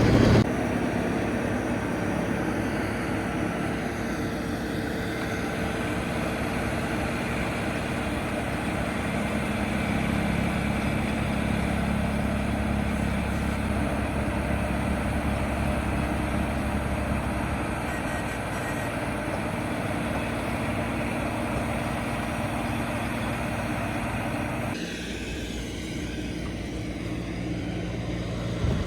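A vehicle engine running steadily, with a noisy mechanical spread above it. The sound changes about 25 seconds in, when the higher part of the noise drops away.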